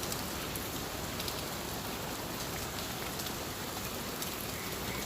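Steady monsoon rain falling and pattering on surfaces, with scattered individual drop ticks.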